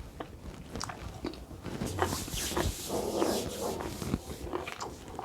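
Close-up mouth sounds of eating matoke (plantain porridge), with a noisy slurp-like stretch in the middle and scattered light clicks.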